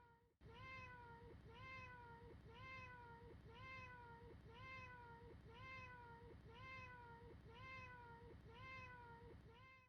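A single short cat meow looped over and over, repeating about once a second, each call the same and sliding slightly down in pitch, over a low hum. There is a brief gap just after the start where the loop restarts.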